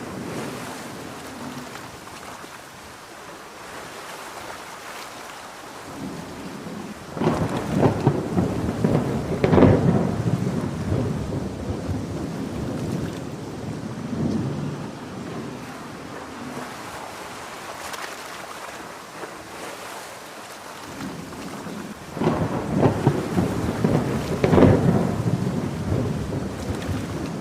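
Steady heavy rain with two long rolls of thunder, crackling and rumbling, one about a quarter of the way in and another near the end.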